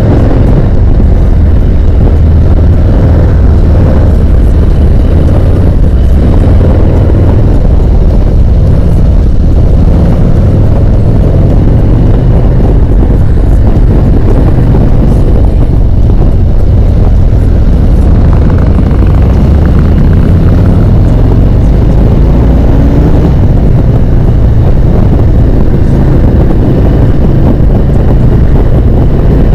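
Harley-Davidson motorcycle riding at speed: a constant loud roar of wind on the camera microphone over the engine's low rumble, with small shifts in engine pitch.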